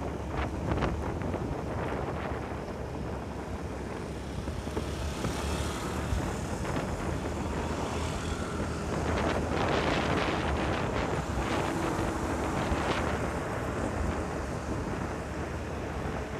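Wind buffeting the microphone over the steady drone of a motorcycle's engine and tyres while riding at road speed.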